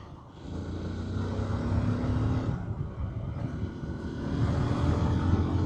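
Honda XR150L motorcycle's single-cylinder engine running under way, picking up about half a second in. The engine note dips briefly about halfway through, then builds again.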